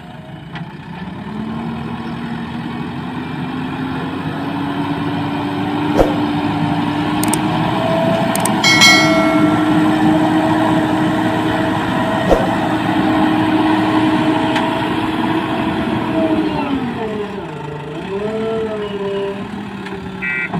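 A heavy diesel engine working under load, its pitch climbing slowly and holding, then dropping and wavering near the end. Sharp knocks and a ringing metallic clang about nine seconds in break through it.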